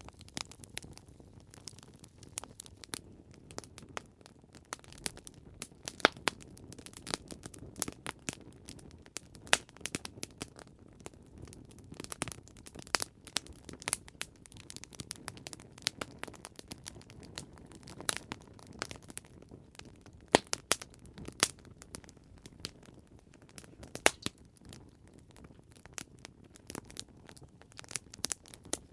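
Campfire crackling: irregular sharp pops and snaps over a low, steady hiss and rumble of burning wood.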